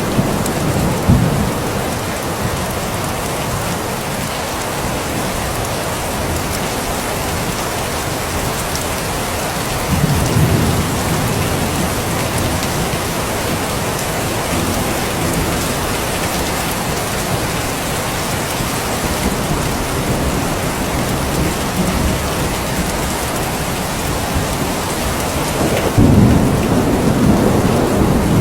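Steady rain falling, with low rumbles of thunder swelling about a second in, around ten seconds in, and near the end.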